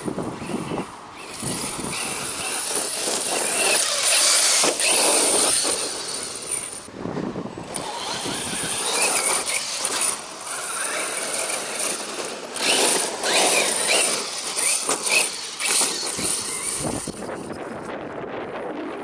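Electric RC trucks driving on a dirt track: brushless motors whining and tyres churning the dirt, swelling and fading with the throttle.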